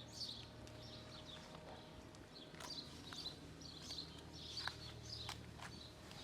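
Small birds chirping over and over in quick, high little calls, with a few sharp faint clicks and a low steady hum underneath.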